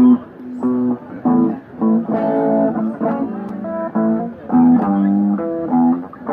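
Guitar music: short plucked or strummed chords in a rhythmic pattern, with brief gaps between them.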